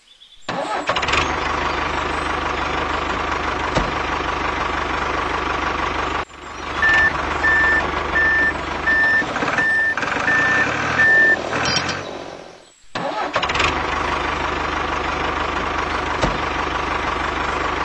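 Diesel tractor engine sound starting and running steadily at idle. Through the middle it is joined by a reversing beeper, about eight evenly spaced beeps, as the tractor backs up to its trailer. The engine sound cuts off abruptly twice.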